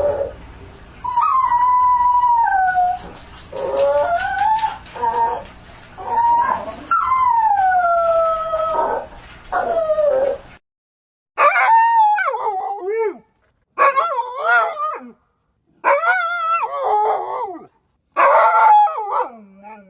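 Dogs howling. First come long drawn-out howls and whines that slide down in pitch, over a steady background hum. Then, after a cut, five short wavering howls, each about a second and a half, with silences between.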